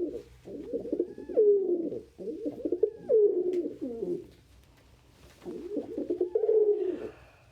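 Domestic pigeons cooing in three rolling bouts of low, gliding coos, with a short quiet gap about two-thirds of the way through.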